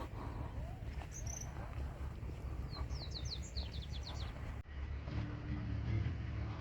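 Wild birds calling: a short chirp about a second in, then a quick run of high falling notes in the middle, over a steady low rumble. The background changes abruptly near the end, as at a cut.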